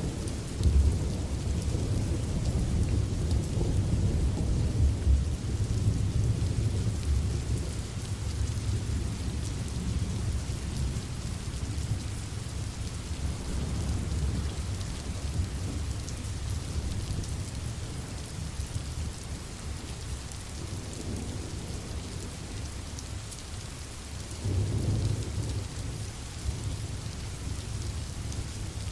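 Steady rain with rolling thunder: a long low rumble through the first several seconds that slowly dies away, then a second shorter rumble near the end.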